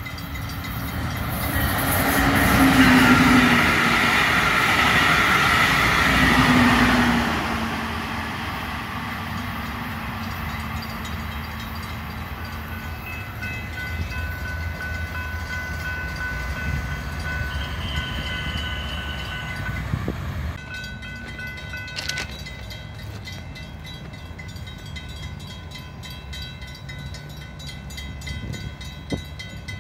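A train passing, loudest in the first seven or so seconds, with two short horn sounds a few seconds apart, then easing to a quieter steady rumble with steady ringing tones over it.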